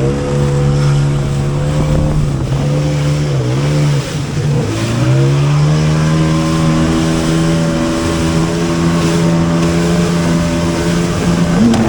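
Jet ski engine running at high revs. The revs dip briefly twice, about three and a half seconds in, then climb back and hold steady.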